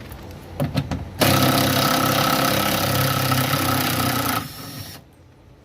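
A few short clicks, then a power tool runs steadily for about three seconds while backing out 10 mm bolts, and winds down near the end.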